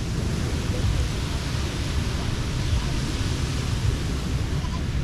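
Steady wash of surf on a beach, with a strong low rumble of wind on the microphone and faint people's voices in the distance.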